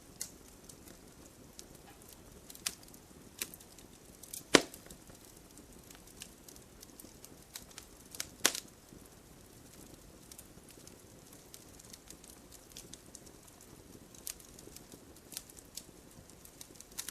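Wood fire in a fireplace crackling, with scattered small pops and two louder snaps about four and a half and eight and a half seconds in, over a low steady hiss.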